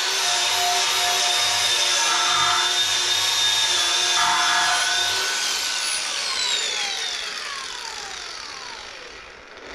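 High-speed handheld power tool running with a steady whine, then switched off about six seconds in and spinning down, its pitch falling away as it fades.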